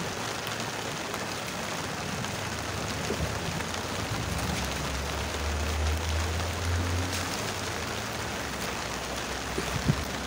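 Steady rain falling, with a low rumble for a few seconds around the middle.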